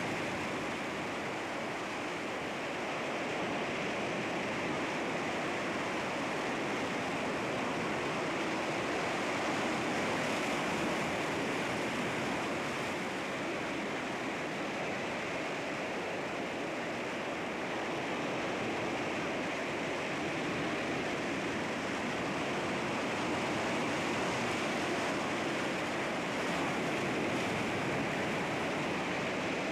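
Sea waves washing against rocks, a continuous wash of surf that swells and eases gently.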